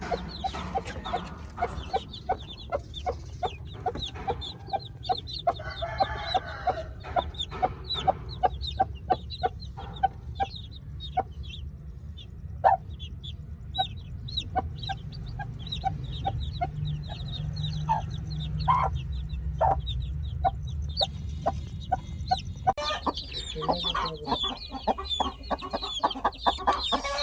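Chickens clucking: a run of short, sharp calls several times a second over a steady low hum, with the calls growing denser near the end.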